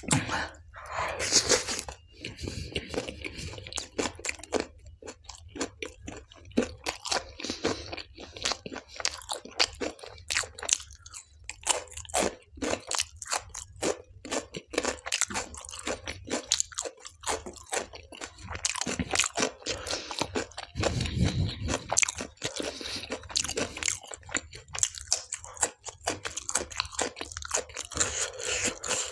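Close-miked mouth sounds of a person chewing tandoori naan soaked in dal: a steady run of wet smacks, soft crunches and quick clicks.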